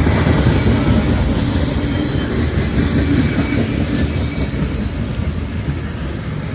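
A train passing close by, its cars rumbling and clattering over the rails, gradually easing off toward the end.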